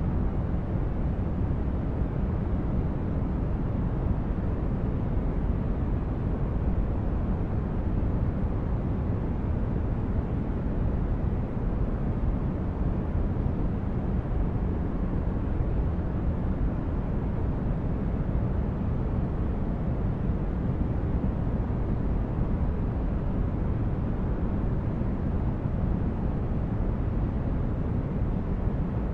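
A steady, unchanging noise track made for sleep. It is deep, with most of its weight in the bass and only a little hiss up top.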